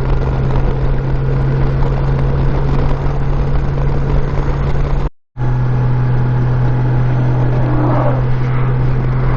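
Honda Gold Wing F6B flat-six engine running steadily at cruising speed, a constant low drone under rushing wind and road noise. The sound cuts out completely for a split second about five seconds in.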